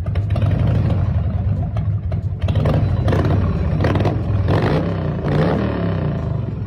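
Custom chopper's 80 cubic inch Evolution V-twin engine running loudly and being revved, its pitch rising and falling several times in the second half.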